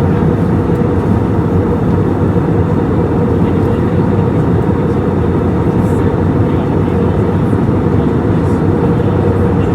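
Steady engine and airflow noise inside the cabin of an Airbus A320 in flight during its descent, deep and even, with a faint steady hum above it.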